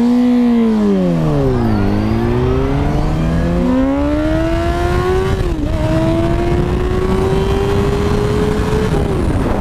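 2006 Yamaha R1's inline-four engine with slip-on exhaust, heard from the rider's helmet: the revs flare up and fall away, then climb steadily through two gear changes before the throttle closes near the end. A steady rush of wind runs underneath.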